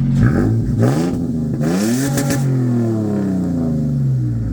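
Toyota Tacoma X-Runner's 4.0-litre V6 revved through a new 4-inch stainless exhaust tip: a couple of quick blips from idle, then a longer rev that falls slowly back to idle near the end.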